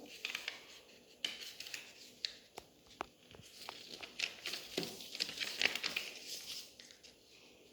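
A sheet of paper being folded and creased by hand: soft rustling and crinkling with scattered light clicks and taps.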